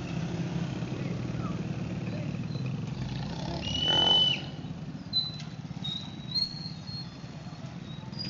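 A motor vehicle running steadily with a low rumble. About three and a half seconds in it swells loudly for under a second, with a high steady whistle over it that then cuts off.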